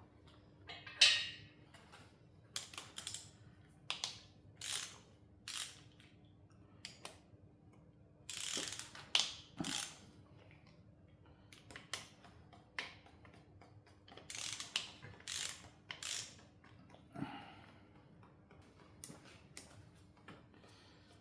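A hand ratchet wrench clicking in short, irregular bursts as bolts are worked loose while an engine is being taken apart.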